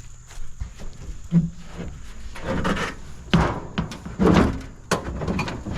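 Scrap being pushed and shifted in a pickup truck bed: a series of heavy thunks, knocks and scrapes, the loudest a little past the middle.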